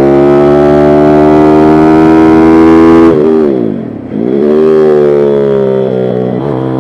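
Pit bike's small single-cylinder engine held at high revs for about three seconds, then the revs drop sharply and climb back up again, with a brief dip near the end.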